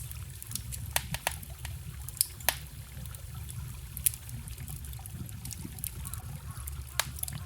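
Wood campfire crackling with irregular sharp pops, over the steady low rush of a forest stream.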